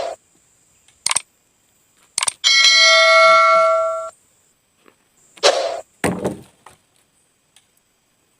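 A few short thunks, then a bell-like ding that rings for about a second and a half, then two more short thuds before the sound falls silent.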